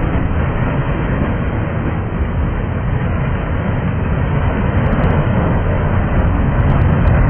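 Freight train cars, tank cars and covered hoppers, rolling past: a steady rumble and clatter of steel wheels on the rails, getting a little louder near the end.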